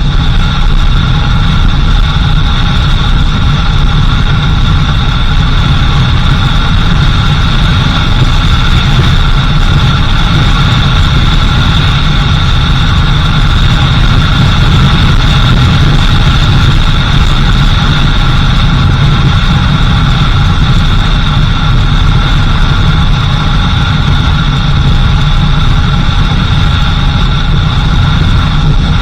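A vehicle's engine running steadily under a constant low rumble, with steady high-pitched tones above it that do not change.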